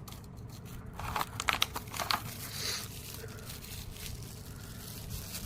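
Close-up handling noise: crinkly rustling with a cluster of sharp clicks between about one and two seconds in, over a steady low hiss.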